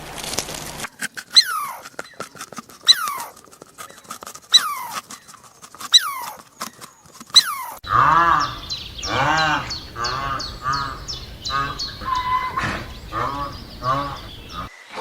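Animal calls: short falling squeaks repeated about every second and a half, then from about eight seconds a quick run of pitched, honk-like calls.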